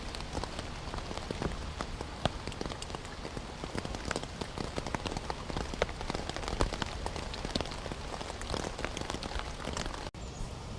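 Steady rain falling on a tent, heard from inside: an even hiss dotted with many separate drop hits on the fabric. It breaks off briefly near the end.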